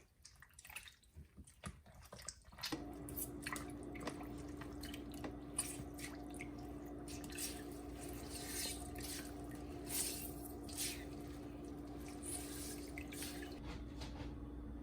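Water dripping and splashing with short sharp ticks, and a steady electrical hum that starts about three seconds in and holds to the end.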